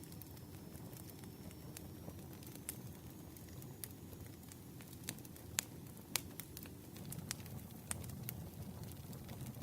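Campfire crackling: a low steady rumble of burning with irregular sharp pops, a few louder ones a little past halfway.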